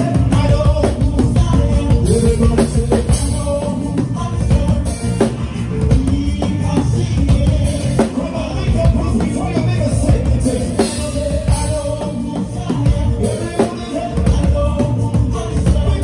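Live praise band playing an upbeat groove with drum kit and bass, with singing, recorded on a phone.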